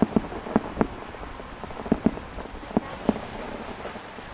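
Distant fireworks shells bursting, heard as a string of short, sharp pops, about eight of them, irregularly spaced and sometimes in close pairs.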